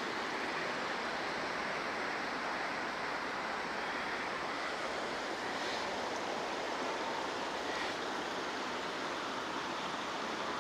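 River water rushing over rocks in a steady, unbroken noise.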